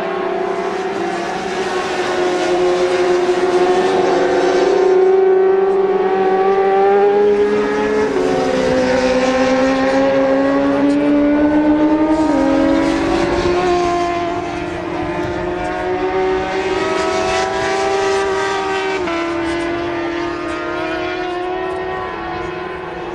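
Racing motorcycle engines at high revs, several bikes at once, the pitch climbing and then dropping sharply with gear changes a few times.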